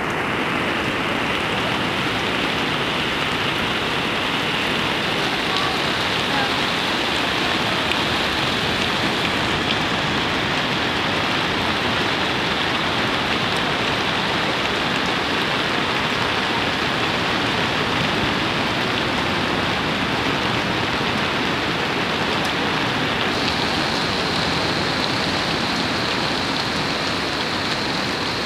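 Steady rain on a beach: a constant, even hiss of falling rain.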